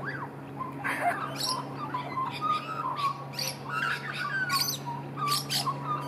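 Birds calling: a busy run of short squawks and chirps, many of them overlapping, over a steady low hum.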